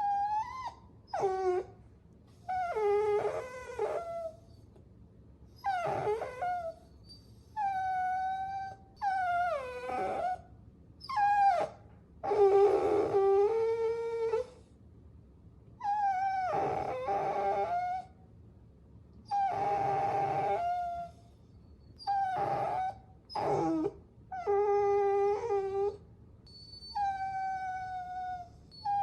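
Puppies whining and whimpering: a dozen or so high cries with short gaps between, some sliding down in pitch and a few hoarse.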